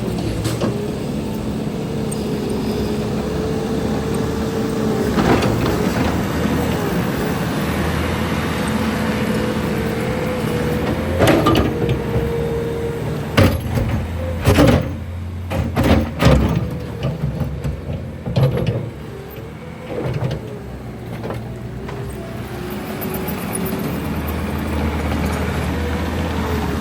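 Bobcat T650 compact track loader's diesel engine running under work, with a whine that wavers in pitch. A run of sharp knocks and clanks comes about 11 to 17 seconds in, and the engine sound drops for a few seconds after them before coming back up.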